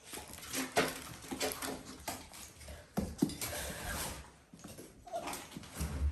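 Dalmatian puppies playing, with short whines mixed with scuffling and many sharp little knocks and clicks.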